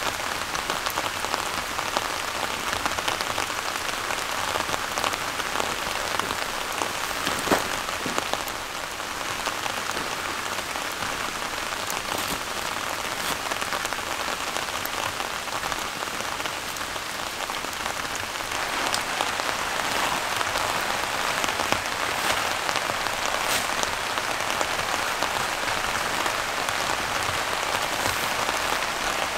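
Steady rain falling, with the odd louder drop striking close by; the rain grows a little heavier about two thirds of the way in.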